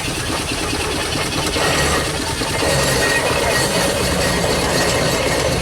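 Steam road engine running past with a steady low rumble.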